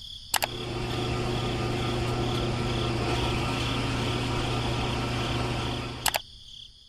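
A small motor switched on with a click, running steadily with a constant low hum for about six seconds, then switched off with another click.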